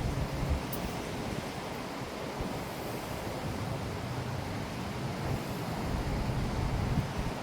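Strong wind rushing and buffeting the microphone in gusts, a steady roar of noise with a heavy low rumble.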